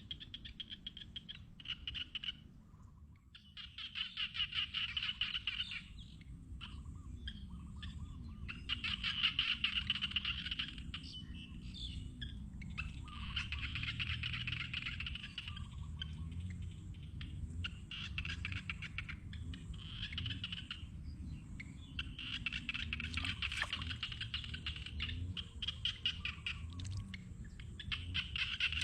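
A chorus of calling frogs: repeated bouts of fast, high trills, each a few seconds long with short breaks between, over fainter, lower wavering calls.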